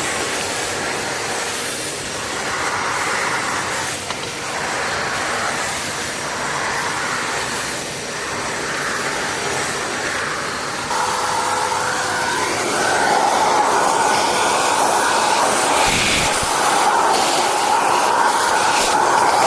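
Kärcher WD 4 S wet/dry vacuum cleaner running with a steady rushing hiss of air, changing in tone about eleven seconds in and getting louder a couple of seconds later.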